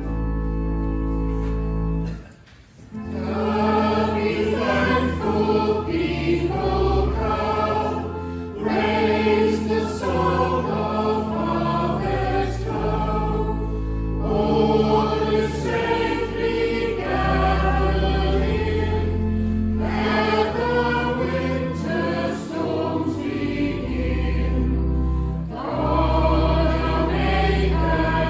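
Church organ holding the closing chords of a hymn's introduction, a brief break about two seconds in, then choir and congregation singing the hymn together with organ accompaniment.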